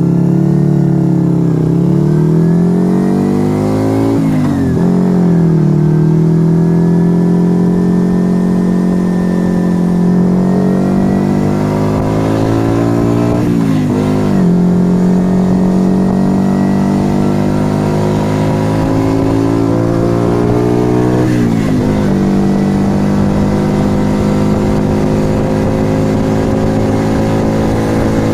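Yamaha XV125 Virago's small air-cooled V-twin running through an aftermarket Turbo Kit exhaust, pulling up through the gears. The engine note climbs, drops sharply at each of three upshifts, then holds a steady cruising pitch.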